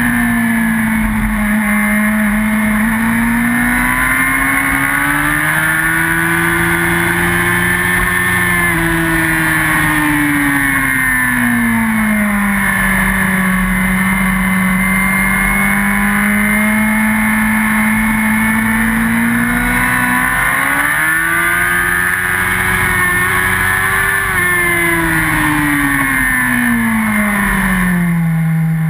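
Yamaha R1 inline-four sport bike engine under way at track speed, heard from a camera mounted on the bike. Its pitch rises and falls smoothly with the throttle through the corners: it climbs twice and drops back, lowest near the end.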